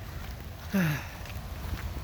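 A short, falling vocal sound from a woman, like a brief 'hmm', about three-quarters of a second in, over a steady low outdoor rumble.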